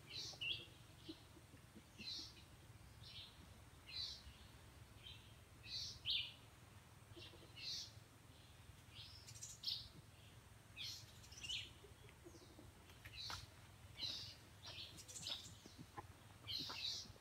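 Birds chirping: short, high calls repeated about once a second, a little denser near the end, over a faint steady low rumble.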